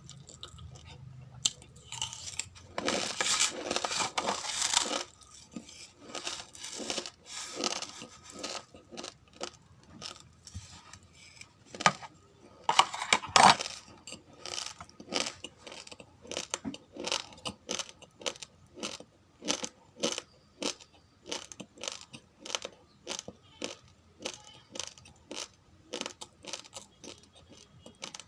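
Raw, uncooked rice grains crunching between the teeth, heard as a run of sharp cracks about one to two a second. There are two denser, louder spells of crunching, about three seconds in and again near the middle.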